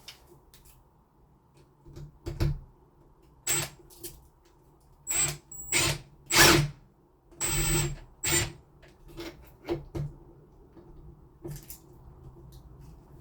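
A cordless drill-driver driving screws in a run of short bursts, each lasting under a second, several with a thin high motor whine.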